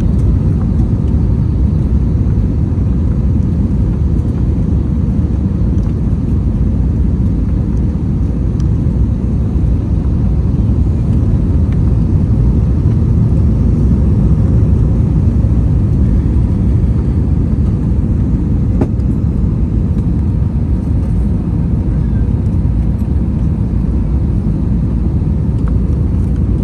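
Steady low rumble inside the cabin of an Airbus A321 with IAE V2500 engines: engine and airflow noise heard from a window seat, even throughout with a faint steady hum above the rumble.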